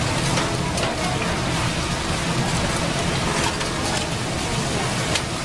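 Food frying on a hot cooking tray: a steady sizzling hiss with scattered sharp crackles, over a constant low hum.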